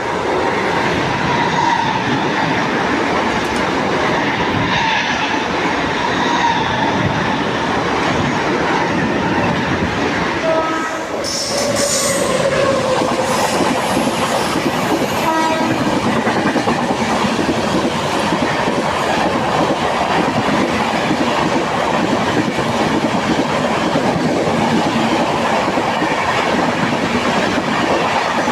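Mumbai local electric train passing at speed, a loud steady rush of wheels and carriages on the rails with clickety-clack. A short horn blast sounds about halfway through.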